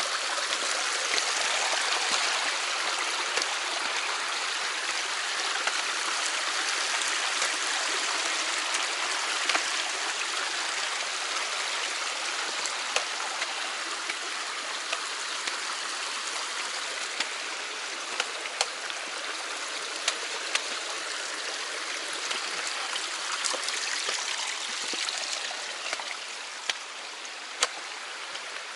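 Mountain stream rushing steadily, running full just after rain, with a few sharp ticks over it; it grows slightly quieter near the end.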